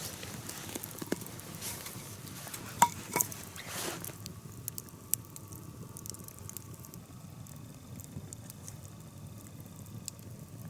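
Campfire crackling with scattered sharp pops, under a kettle hung over the flames. For the first four seconds a rustling, brushing noise runs over it, then it settles to the crackle alone with a faint steady hiss.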